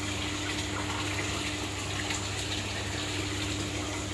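Steady rush of running water in a fish pond's circulation, with a low steady hum underneath.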